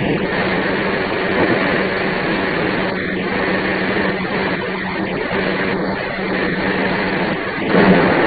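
Meitetsu Panorama Car electric train running, heard from inside the passenger cabin: a steady rumble of wheels and running gear with a constant low hum. A brief louder rush comes near the end.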